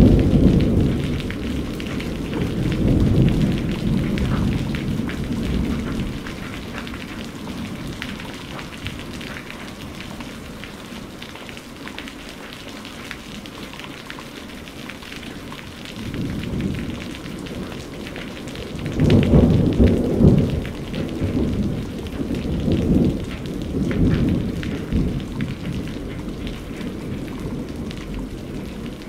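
Steady rain falling in a thunderstorm. Rolling thunder rumbles at the start, dies away, and rumbles again more loudly about two-thirds of the way through.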